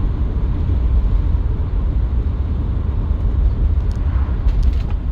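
Steady low rumble from the rear end of a moving 1955 Chevrolet Bel Air, heard inside the car. It does not change with load, so the driver rules out the differential and suspects the tires, which were at 18 psi instead of 30.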